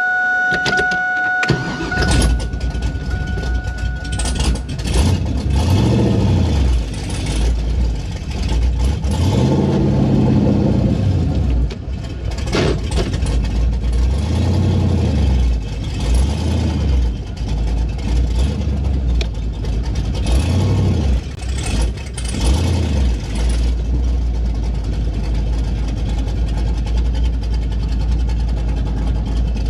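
Pontiac Trans Am engine starting with one muffler off, catching about two seconds in and then running loud and rowdy through the open exhaust, its revs rising and falling again and again. A steady electronic warning tone sounds over the first few seconds.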